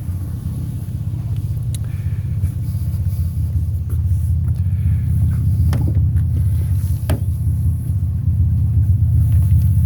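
Steady low rumble of a vehicle engine running, with a few light clicks and knocks in the middle.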